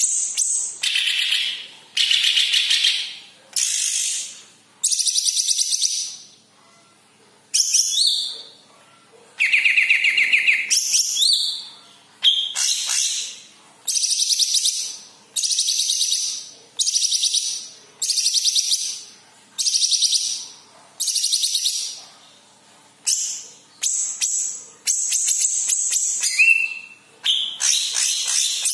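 A yellow-headed cucak ijo (leafbird) singing: a run of loud, high, fast-trilled phrases about a second long each, separated by short pauses.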